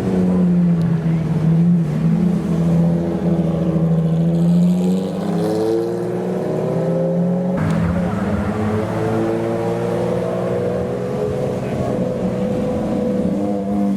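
Ferrari FXX K Evo's V12 engine running and accelerating, its pitch rising in two long sweeps over a steady lower drone.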